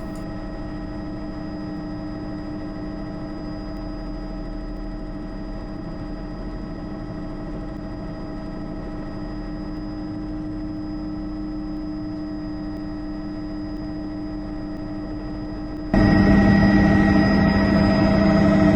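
Bell JetRanger helicopter cabin noise: the Allison 250 turbine and rotor running as a steady whine made of several held tones. About sixteen seconds in it jumps abruptly much louder.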